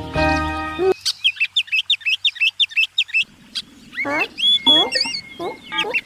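Background music stops about a second in, followed by birds chirping: quick high chirps repeating several times a second, then a few lower rising and falling calls near the end.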